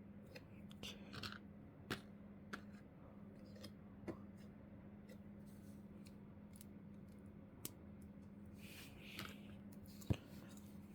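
Small plastic Lego bricks being handled and pressed together, giving scattered faint clicks and taps with a sharper click about ten seconds in, over a low steady hum.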